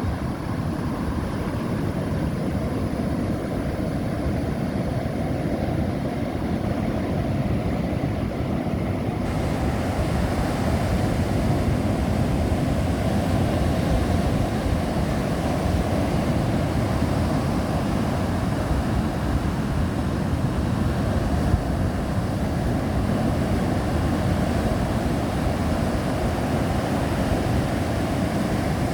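Strong wind buffeting the microphone over the steady wash of big Atlantic surf, a continuous low rumble. The higher hiss of the surf grows fuller about nine seconds in.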